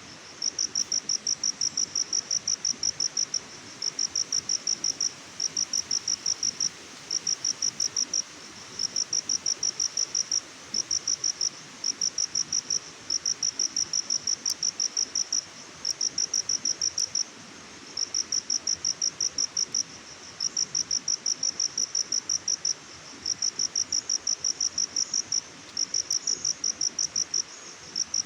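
An insect chirping steadily: repeated trains of rapid high-pitched pulses, each about a second long, separated by short pauses, over a faint background hiss.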